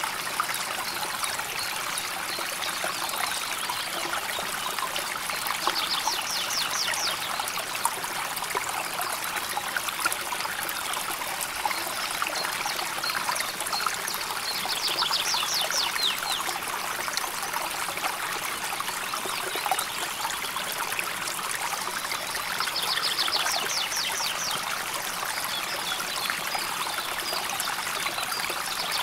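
River water flowing and trickling steadily. Three times, a high, rapid trilling call of about a second rises over the water.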